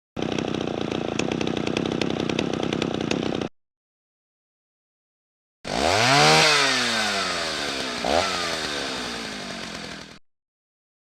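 Two separate tool recordings. First a power tool runs steadily for about three seconds with an even rasp. After a pause, a chainsaw engine revs up, winds down, surges once more and dies away.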